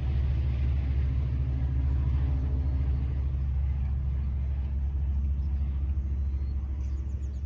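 Low, steady rumble of a departing Amtrak passenger train, easing off slightly near the end as it recedes.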